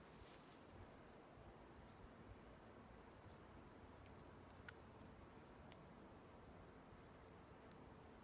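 Near silence, with a faint bird repeating one short high chirp every second or two and a few faint clicks.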